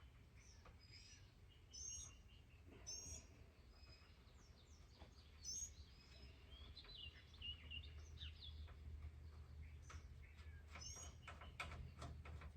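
Faint songbirds chirping, short high calls repeating every second or so, over a low steady hum, with a few light clicks near the end.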